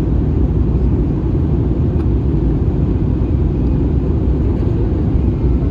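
Steady low rumble inside the cabin of an Airbus A320 in flight: engine and airflow noise, with no distinct events.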